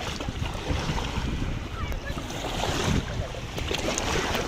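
Sea surf washing at the shore, with wind rumbling on the microphone.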